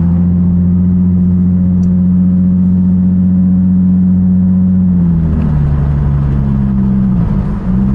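Nissan 350Z's 3.5-litre V6 running through a modified exhaust with high-flow cats, Y-pipe and ISR blast pipes, a steady drone while driving. The engine note changes about five seconds in and dips briefly near the end.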